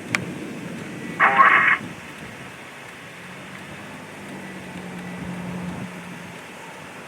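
Steady vehicle road noise with a sharp click just after the start, then a half-second burst from a two-way radio about a second in. A low steady hum follows from about three seconds in.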